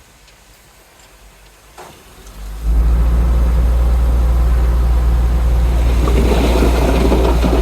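Heavy earthmoving machinery's diesel engine running with a deep, steady drone, which starts abruptly about two and a half seconds in after a quieter stretch. From about six seconds a rough, scraping rattle joins it.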